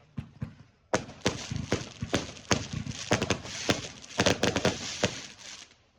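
Fireworks going off: a few single pops, then from about a second in a rapid run of bangs and crackling reports that lasts about five seconds and stops suddenly.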